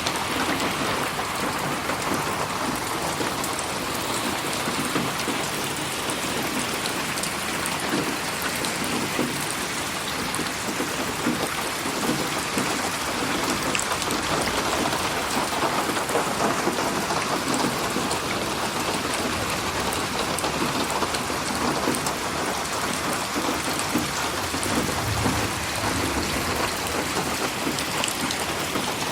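Steady rain falling on surfaces, an even patter of drops, processed as 8D audio so it pans around the listener. A low rumble of thunder swells briefly about 25 seconds in.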